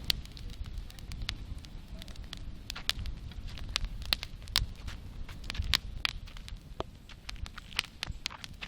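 Campfire burning, crackling with many irregular sharp pops and snaps over a low rumble.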